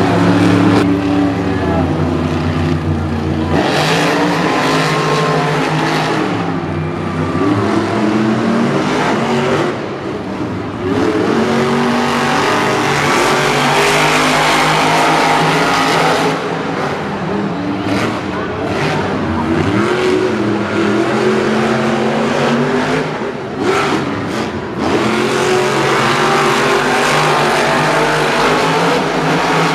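Monster truck engines revving hard and racing, pitch rising and falling again and again over a loud, continuous stadium din.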